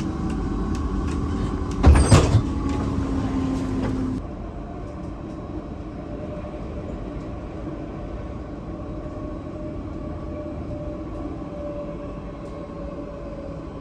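Tram running, heard from inside the car: a steady rumble and motor hum with a loud clunk about two seconds in. After an abrupt change about four seconds in, a quieter steady hum with a tone that slowly falls.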